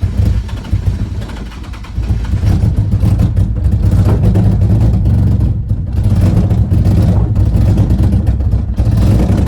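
Nissan 350Z's 3.5-litre VQ V6 catching after a jump start and running loud and uneven on E85 through a full exhaust, held on the throttle. It gets louder about two seconds in.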